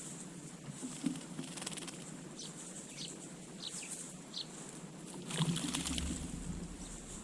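Small garden birds giving short, high, downward chirps several times. About five seconds in, a louder burst of wing flapping and splashing comes from a bird at the water dish.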